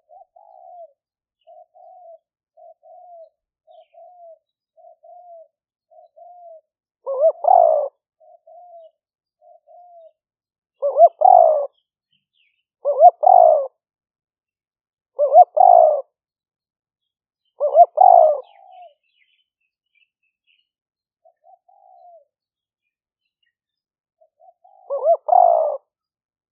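Spotted dove cooing: a run of soft short coos about every half second, then loud multi-note coo phrases repeated every two to three seconds. It is a caged decoy dove calling to lure wild ones.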